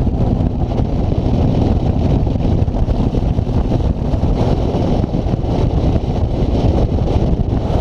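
Wind buffeting the microphone on a moving road bike, a loud steady low rumble with road noise underneath.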